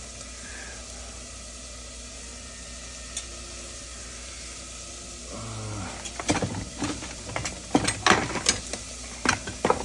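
Steady sizzle of food frying on the stovetop. From about five and a half seconds in, a quick run of sharp clicks and knocks from kitchen utensils and containers being handled is louder than the sizzle.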